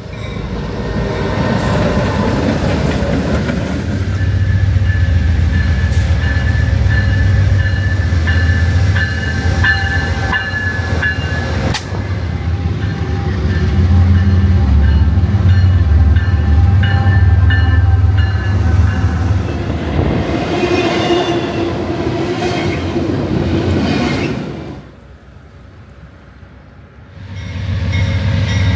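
A train running close by: a steady low locomotive rumble with the noise of rolling rail cars and some thin ringing squeals from the wheels. It drops off briefly near the end, then comes back.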